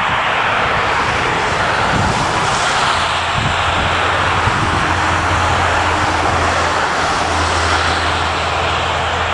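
Jet airliner's engines at takeoff power: a loud, steady rush, with a low hum coming in about three seconds in.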